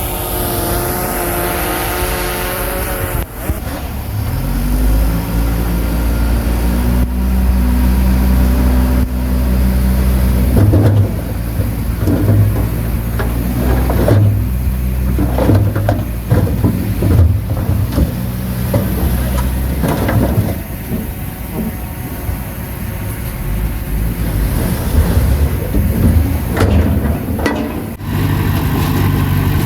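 Bulldozer's diesel engine working under load: it revs up a few seconds in, then keeps running heavily. Irregular clanks and knocks run through the middle of the stretch.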